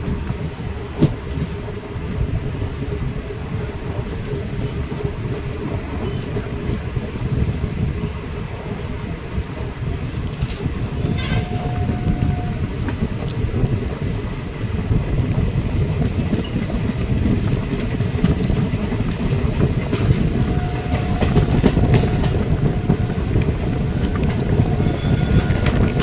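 Garib Rath express coaches running out of the station, heard from an open door: a steady rumble of wheels and wind with clicks over rail joints and points, growing louder as the train gathers speed. A horn sounds briefly about halfway through and again a few seconds later.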